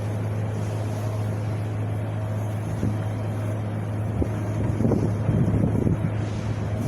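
Wind blowing with a steady low rumble, gusting harder and buffeting the microphone in the second half.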